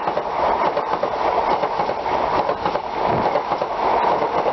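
Great Western Railway High Speed Train's coaches rolling past, a steady rumble with frequent clicks of the wheels over rail joints.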